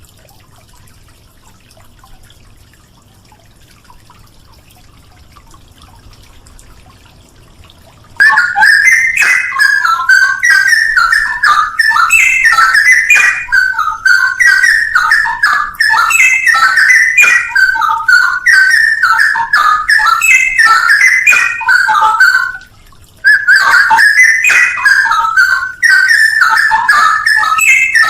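Straw-headed bulbul (cucak rowo) singing: loud, fluid, warbling song phrases that start abruptly about eight seconds in after faint background, pause briefly near the end, then carry on.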